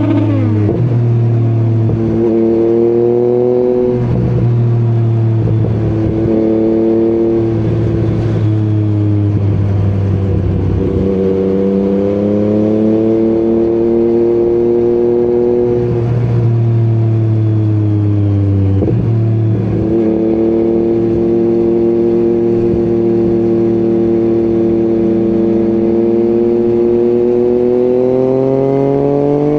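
Yamaha MT-09 three-cylinder engine running through an Akrapovic exhaust while riding, its pitch dropping and picking up again several times as the throttle is rolled off and on through gear changes, and climbing steadily near the end under acceleration.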